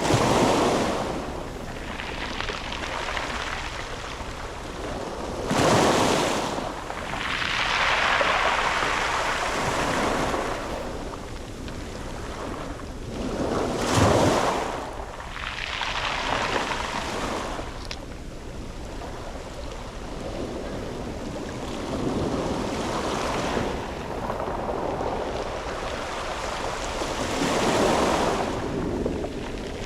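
Sea waves breaking on a pebble beach, each swell surging in and washing back every few seconds, the loudest crashes about 6 and 14 seconds in.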